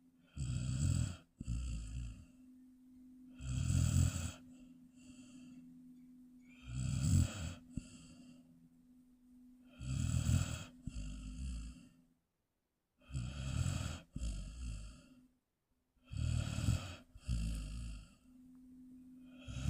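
Large mastiff-type dog snoring in its sleep, one snore about every three seconds, each breath in two parts.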